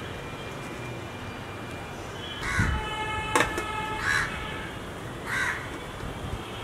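Three short, harsh bird calls, crow-like, over a steady low hum, with a single sharp clink between the first and second calls.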